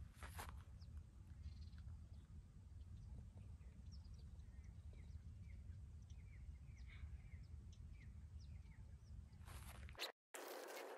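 Faint bird chirps, short and scattered, over a low steady rumble. Near the end there is a brief louder rustle.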